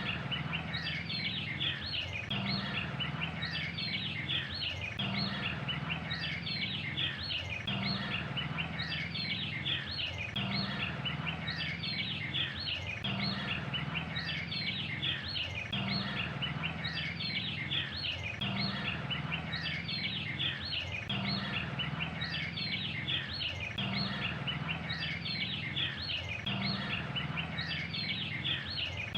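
A dense chorus of birds chirping and twittering without a break, in a pattern that repeats about every two and a half seconds.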